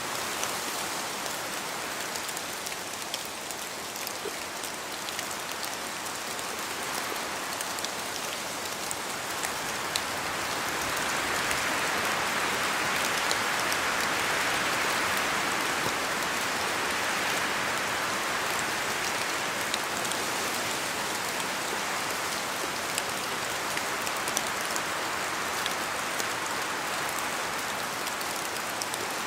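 Steady rain falling in a spruce forest, with many small drops ticking as they land, and wind blowing through the spruce trees. The rush swells louder from about ten seconds in and eases off again after about twenty seconds.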